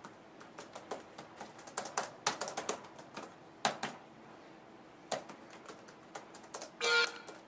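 Irregular clicks of keys being pressed, a couple of dozen sharp taps at uneven spacing. A short burst of tones comes in near the end.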